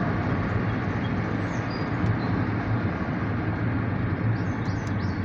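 Steady low rumble of a diesel freight train running.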